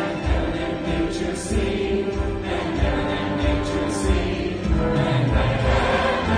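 Congregation and choir singing a Christmas carol together, with instrumental accompaniment and a steady low beat under held sung notes.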